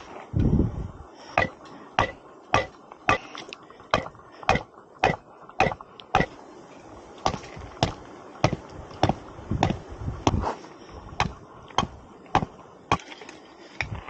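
A steady run of sharp knocks or strikes, about one and a half to two a second, with a heavier thud near the start and a short pause about halfway through.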